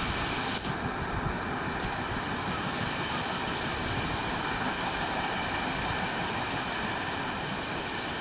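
Steady rolling noise of an express train's coaches running away on the rails, easing off slightly near the end.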